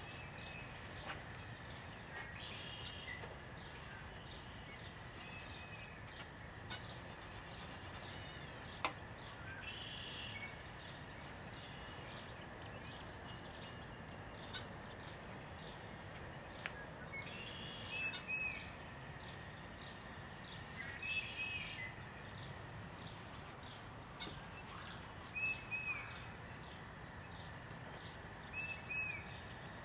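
Outdoor ambience with birds calling: short, arching chirps in small clusters every few seconds, over a steady faint hiss and a faint steady high tone. A few faint clicks fall in between.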